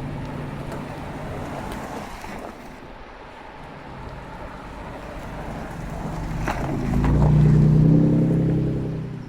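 Cars driving past: one engine fades away in the first couple of seconds, then another car approaches and passes close, loudest about eight seconds in, before fading.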